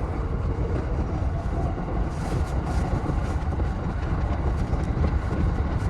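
E233 series electric commuter train running, heard from on board: a steady low rumble of wheels on rails with a faint hiss above it.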